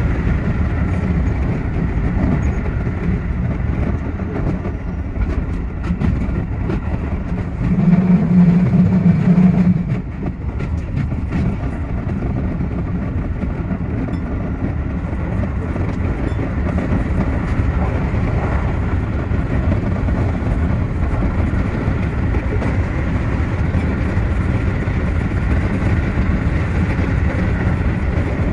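Keio 8000 series electric train running, heard from the driver's cab: a steady rumble of wheels on rail, with a louder low hum for about two seconds roughly a third of the way in.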